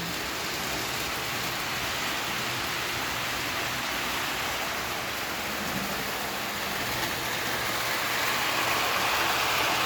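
Lionel O scale model train rolling along three-rail track, a steady rushing rumble of wheels and motors that grows a little louder near the end.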